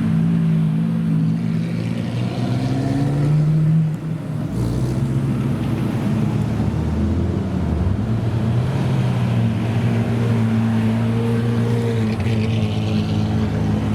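Supercar engines running loud and steady, with a short rise in revs about three seconds in and another near the end.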